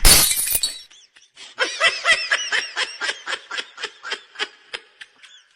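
A short, loud burst of noise right at the start, then a person laughing in quick, high-pitched bursts, about four or five a second.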